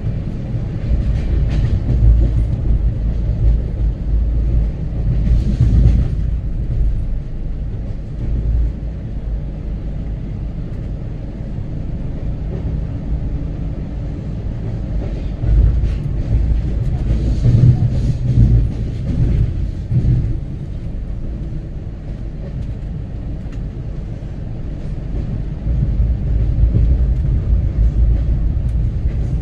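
Two passenger trains running side by side on parallel tracks: a steady low rumble of wheels on rails, with louder rattling swells several times and a rise in level near the end.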